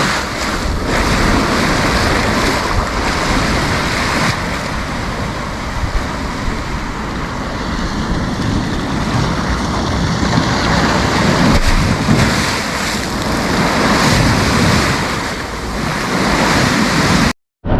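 Sea waves breaking and washing up a beach in a steady, swelling surf, with wind buffeting the microphone. The sound cuts out for a moment near the end.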